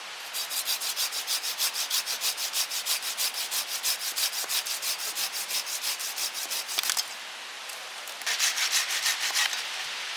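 Fast, even scraping or rubbing strokes, about six a second, for about seven seconds; they stop, then start again for about a second near the end, over steady rain.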